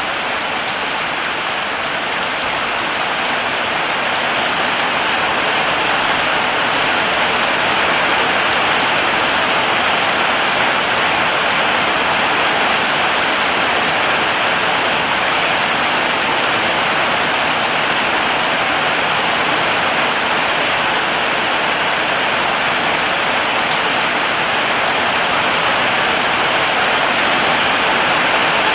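Heavy rain falling steadily as an even, dense hiss.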